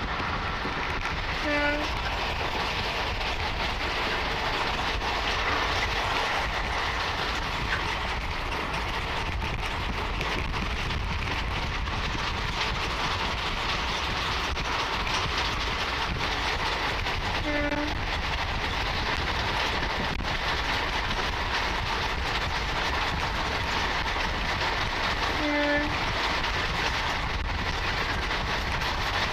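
Passenger train running at speed, heard from an open coach doorway: steady wheel-and-rail noise with rushing air. The train's horn gives three short toots: one about a second and a half in, then two more later on.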